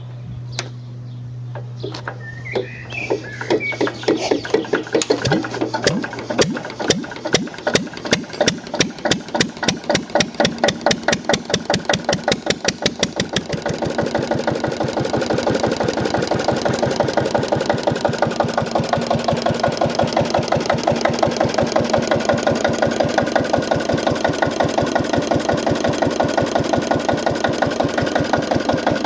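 Old diesel engine starting: a few slow, uneven firing strokes quicken over the first few seconds into an even beat of strokes, then settle into steady running.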